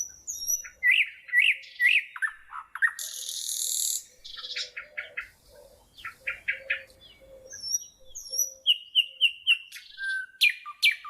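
Songbirds chirping and calling: many short, high calls and quick runs of repeated notes, with a brief hiss about three seconds in.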